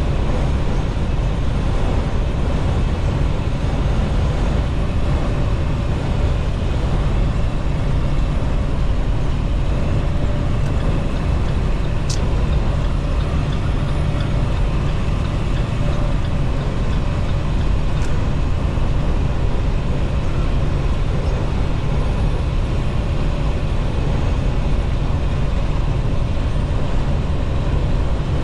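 Steady cab noise of a semi-truck at highway speed: a low rumble from the engine and road, with wind hissing in through the leaky door seals. Two faint ticks sound about 12 and 18 seconds in.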